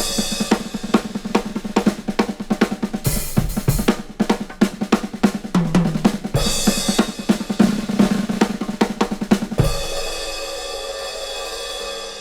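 Drum kit played fast and busy, with rapid snare strokes and rolls, bass drum and cymbals. About ten seconds in it ends on a loud crash that rings out and fades.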